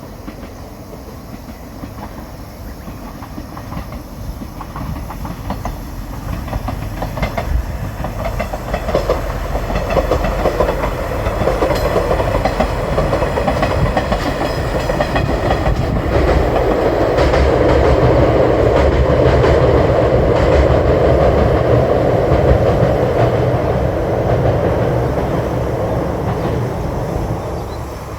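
Shikoku Mannaka Sennen Monogatari, a KiHa 185 diesel railcar set, running past with its wheels clacking over the rail joints. It grows steadily louder, is loudest a little past the middle, then eases off slightly.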